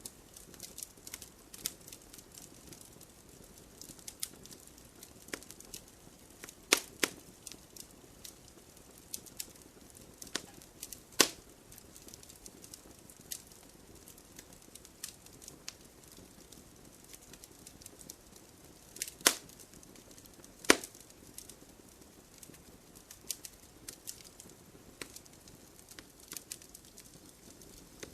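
Campfire of burning wood crackling, with irregular small snaps and a few sharper, louder pops over a faint low hiss.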